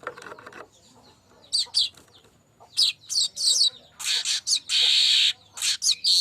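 Manyar kembang weaver singing: short high chirps, then long dry buzzing, hissing notes from about two-thirds of the way in.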